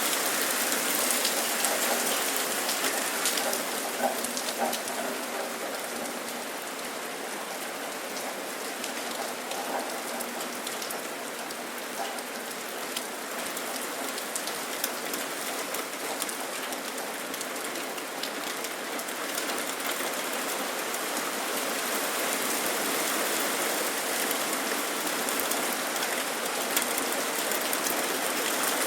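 Steady rain falling, with scattered sharper ticks of individual drops; it eases slightly in the middle and picks up again in the last third.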